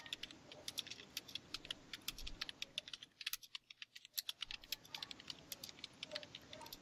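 Typing on a computer keyboard: many quick, irregular key clicks.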